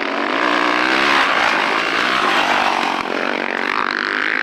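Dirt bike engines revving hard close by, the pitch rising and falling as the riders work the throttle.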